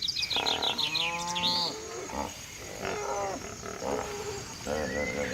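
A large animal's deep, pitched calls, several in a row, the first lasting about a second and a half and falling in pitch at its end. A bird's quick series of high chirps plays at the start and again near the end.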